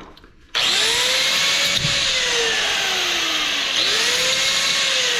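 Handheld electric power tool starting up about half a second in and cutting into a metal part; its motor pitch twice climbs, then slowly sags under load.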